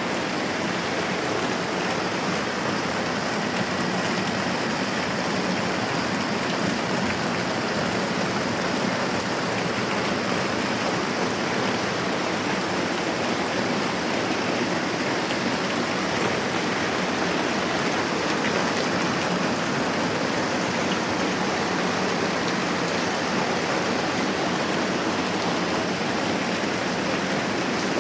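Moderate rain falling steadily, an even unbroken hiss.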